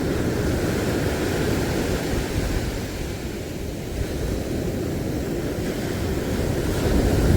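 A steady low rumbling noise of wind and surf, with no distinct events.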